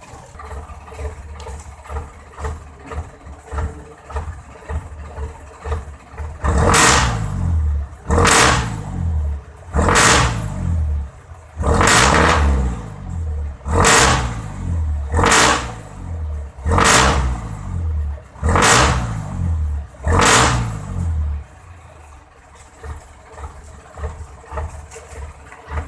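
Jeepney engine running through a new all-stainless muffler: idling, then revved in about nine short blips roughly every second and a half, settling back to idle near the end. The exhaust note is one the owner likens to an airplane.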